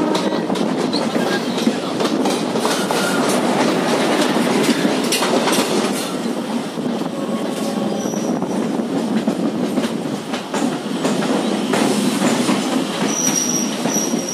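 Train running over the tracks, heard from on board: a steady rumble of wheels on rail with repeated clatters over joints and points. Brief high wheel squeals come about eight seconds in and again near the end.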